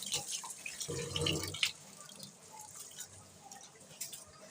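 Water splashing and dripping, with small clicks, as rice is washed in water; the sound is loudest for about half a second a second in, then quieter.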